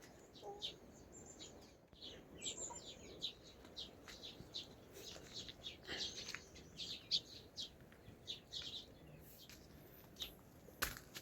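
Birds chirping in short, scattered calls, many in quick succession, over a faint steady hiss.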